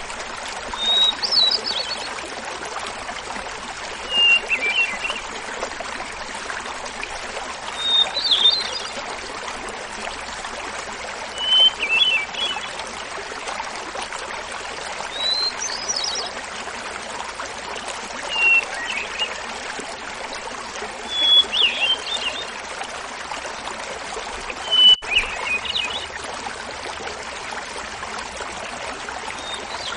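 Hermit thrush singing eight phrases, about one every three and a half seconds. Each phrase is a clear held note followed by a quick fluttering flourish, pitched higher or lower than the one before, over the steady babbling of a small mountain waterfall.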